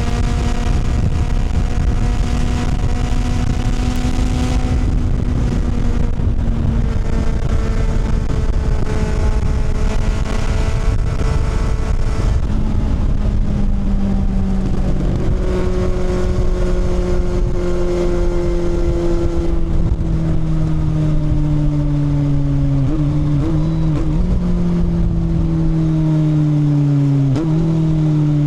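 Kawasaki motorcycle engine running at a steady cruise under wind and road noise, then slowly dropping in pitch as the bike slows, with two abrupt pitch steps near the end as it changes gear.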